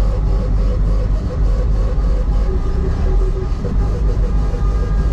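Heavy truck driving, its engine and road noise a loud, steady low rumble.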